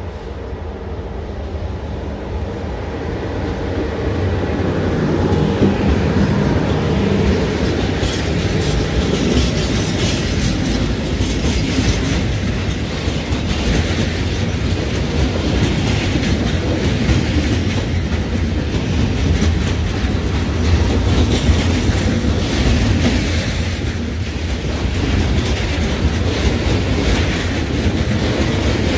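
Freight train passing, growing louder over the first few seconds, then a steady heavy rumble with the wagons' wheels clicking rapidly over the rail joints.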